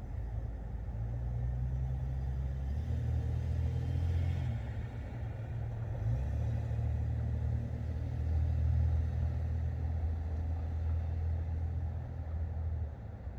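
Rolling thunder: a long low rumble that builds about a second in, swells and eases several times, and drops away near the end.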